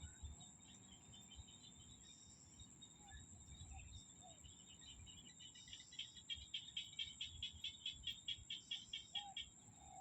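Faint rice-paddy chorus in the rainy season: a steady high insect trill, with small paddy frogs and birds calling now and then. About six seconds in, a rapid series of sharp calls starts at about five a second and runs for some three seconds.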